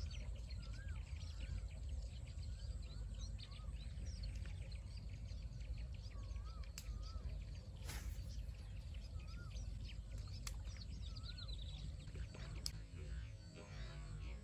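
Birds calling outdoors: one repeats a short wavering whistle about once a second until a little past the middle, with many thin high chirps around it, over a steady low rumble and a few sharp clicks.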